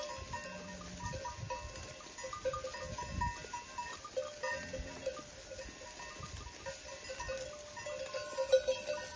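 Bells on a grazing sheep flock clanking irregularly as the animals move.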